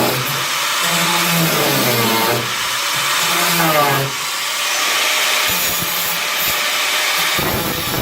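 Power tool working on the car's steel bodywork, with a steady hiss of metal being worked. Its motor tone dips and rises under load in the first half, and the sound changes near the end.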